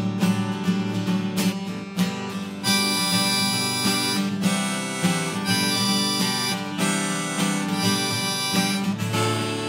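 Instrumental break of a song: acoustic guitar strumming, joined about three seconds in by a harmonica playing long held notes over it.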